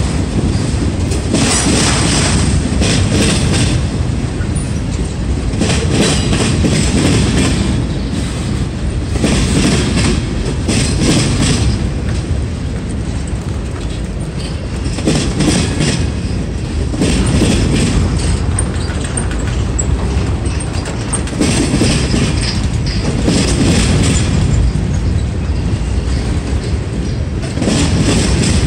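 Freight train cars (boxcars and autoracks) rolling past close by: a continuous loud rumble of steel wheels on rail, with clacks recurring every second or two as wheel sets pass over the rail joints, and a few faint high wheel squeals.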